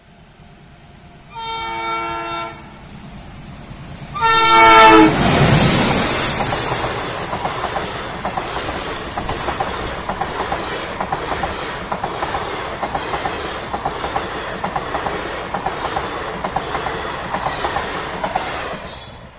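Train horn sounding two blasts, about a second each and a few seconds apart, the second louder, then an Indian passenger train of coaches passing close by: steady wheel-on-rail rumble with a rhythmic clickety-clack that dies away near the end.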